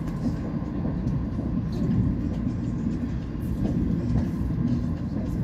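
Passenger train running at speed, heard from inside the coach: a steady low rumble of wheels on the rails and the carriage running.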